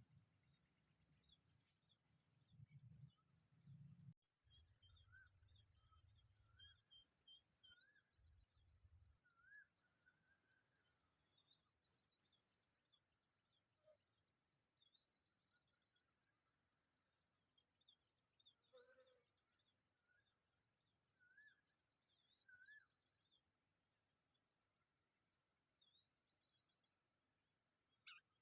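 Faint steady high-pitched insect drone, with short bird chirps and calls now and then.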